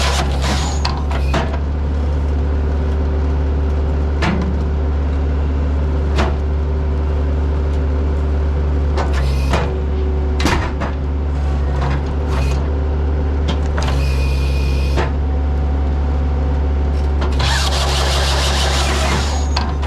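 Skid steer's diesel engine running steadily under hydraulic load while it powers the Halverson 140B firewood processor, with scattered sharp knocks and clanks from the machine. Two longer bursts of hissing, rushing noise come partway through and near the end.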